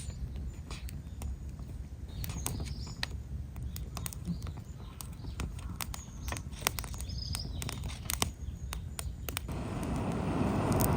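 Campfire of gathered branches crackling, with sharp, irregular pops and snaps over a low rumble. A rushing noise swells near the end.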